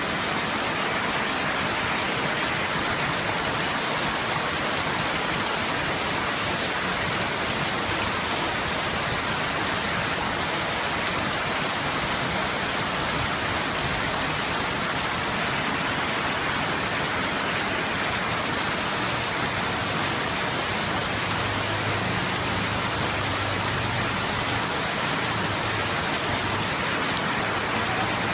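Heavy rain pouring steadily onto a flooded street, a dense even hiss. A low motor hum joins for several seconds in the second half, from a motorbike wading through the floodwater.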